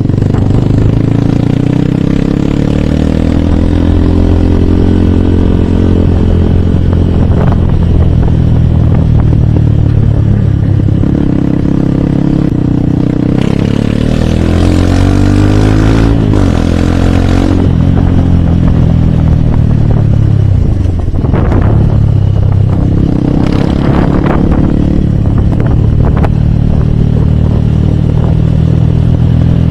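Hero Hunk's 150 cc single-cylinder engine running on the move, its pitch dropping and climbing again several times as the rider eases off and accelerates through the gears. A stretch of hiss joins it midway.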